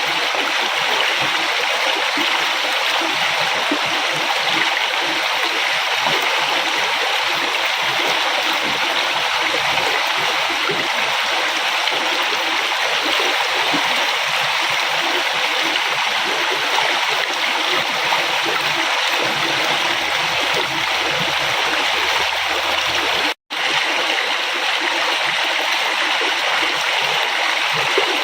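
River water flowing in a steady, even rush, with small splashes and gurgles. The sound drops out completely for a split second near the end.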